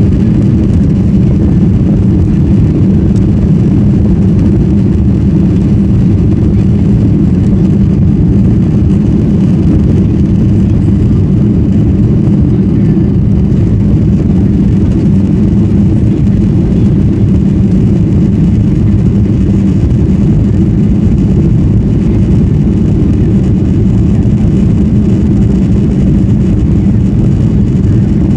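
Boeing 737-900ER's CFM56 jet engines running at takeoff power: a loud, deep, steady rumble that holds even throughout.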